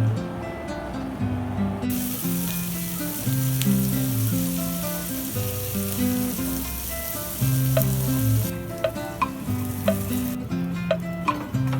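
Food frying in hot oil in a pan: a sizzle starts about two seconds in and stops a few seconds later, followed by sharp clinks of a utensil stirring against the pan. Background music with a repeating bass line plays throughout.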